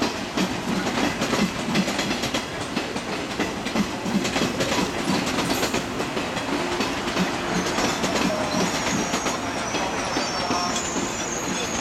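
A JNR 115 series electric multiple unit rolling slowly past, its wheels clicking and clacking over the rail joints. A thin, high wheel squeal comes in about two-thirds of the way through.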